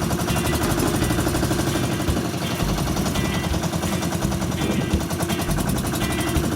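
Boat engine running steadily with a rapid, even pulsing exhaust beat, with low rumble underneath.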